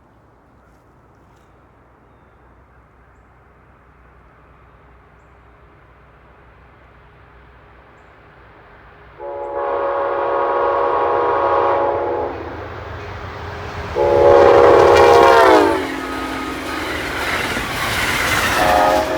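Amtrak passenger train approaching and passing, its locomotive horn sounding: a rumble grows for several seconds, then a long horn blast about nine seconds in, a second, louder blast that drops in pitch as the locomotive goes by, the rumble of the passing cars, and another blast starting near the end.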